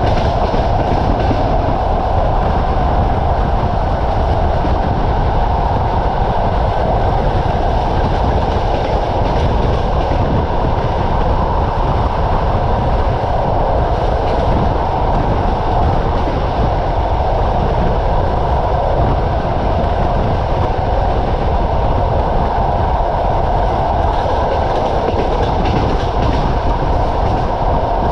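Passenger train coach rolling along the track: a steady, loud rumble of wheels on rails with a faint clickety-clack and rushing air, heard from the carriage window.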